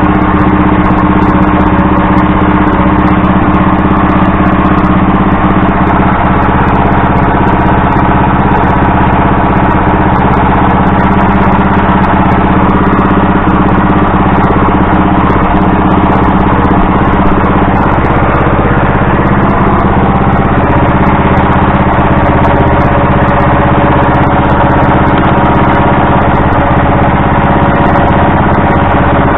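Small engine running steadily at an even speed, with no revving, on its first run after being brought back to working order.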